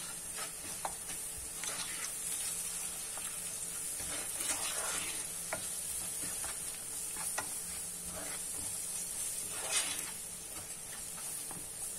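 Chopped onions, ground spices and ginger-garlic paste sizzling steadily in hot oil, with a wooden spoon scraping and stirring them around the bottom of the pot in short, irregular strokes.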